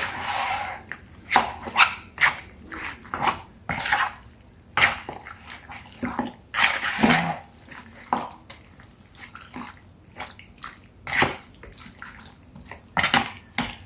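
Raw chicken pieces being mixed by hand with a liquid marinade and seasoning: irregular wet squishes and clicks.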